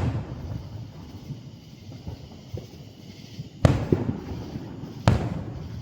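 Aerial firework shells bursting: a loud bang right at the start, then more about three and a half and five seconds in, each trailing off in a rumbling echo.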